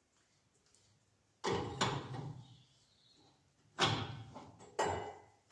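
Three metallic clunks, each trailing off in a short rattle, from work on a muck spreader's floor chains and tensioner nuts: one about a second and a half in, then two close together near the end.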